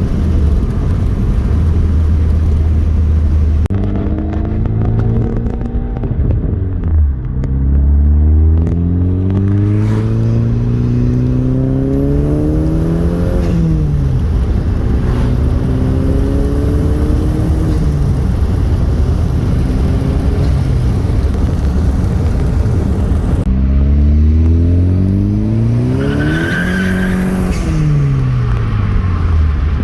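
Chevrolet Cobalt SS's turbocharged four-cylinder engine, heard from inside the car, pulling through the gears of a manual gearbox. It runs low and steady at first, then several times climbs in pitch, drops suddenly at each shift and falls away when the throttle is lifted. A faint high whistle comes near the top of the hardest pulls.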